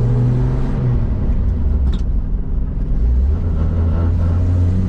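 1958 Rambler Cross Country wagon's inline six-cylinder engine running under way, heard from inside the car with road noise. The engine note steps down about a second in and again after about three seconds, with a brief click near the middle.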